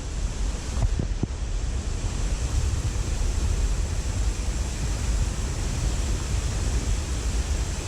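Steady rush of a mountain stream's flowing water, with low wind rumble on the microphone and a few faint ticks about a second in.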